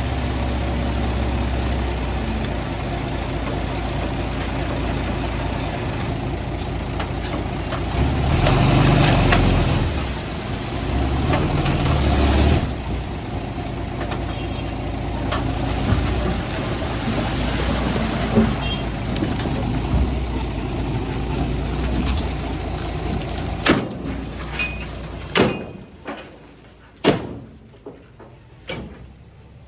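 Heavy diesel engine of earthmoving machinery running, rising to a louder, harder pull for a few seconds about a third of the way in. Near the end the engine sound falls away and a few sharp knocks or clanks are heard.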